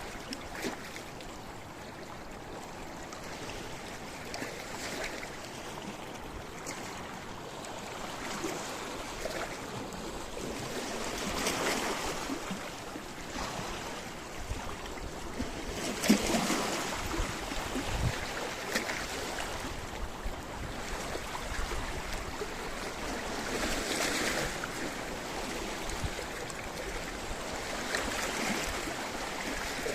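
Sea waves washing in over a rocky shore, a steady rush of water with swells about every four to eight seconds and small splashes and clicks of water among the stones.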